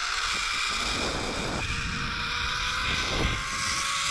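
Zipline trolley pulleys running along the steel cable, a steady whine that slowly rises in pitch, with wind buffeting the microphone.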